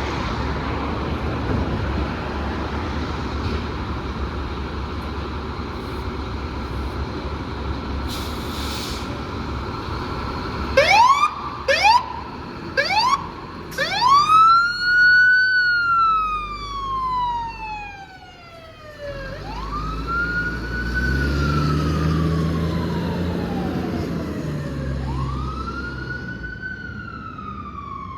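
Fire truck siren starting up over a steady heavy engine rumble. Three short rising whoops come about eleven seconds in, then long wails that rise quickly and fall slowly, repeating every five to six seconds, with the truck's engine revving beneath them.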